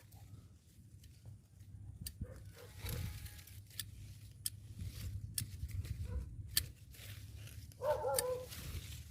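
Pruning shears snipping through durian branches with sharp, separate clicks, over rustling leaves and a low rumble of wind on the microphone. About eight seconds in there is a short wavering call.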